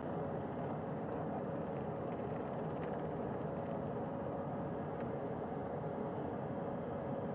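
Navy helicopters running on and over a ship's flight deck: a steady engine and rotor noise with a steady tone through it.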